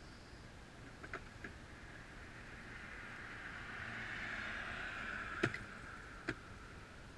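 A vehicle passing by on the road: its noise swells for a few seconds and then fades. Sharp clicks come about a second in and twice more near the end.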